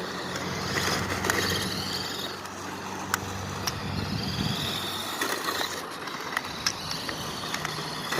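Radio-controlled drift car running, a high whine that wavers up and down and comes and goes, with scattered sharp ticks and knocks from the chassis and tyres, over a steady low hum.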